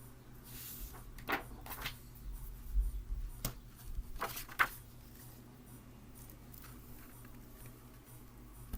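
A book being handled and its pages turned: a few short paper rustles and soft knocks in the first five seconds, then quieter handling.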